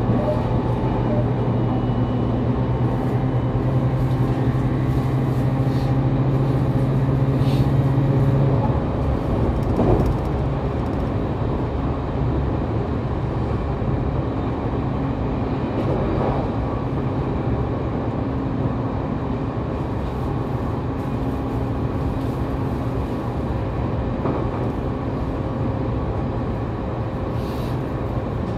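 Running sound inside the motor car KuMoHa 813-1 of a JR Kyushu 813 series electric train at speed: a steady rumble of wheels on rail, with a low steady motor hum that stops about eight seconds in, and a few brief knocks.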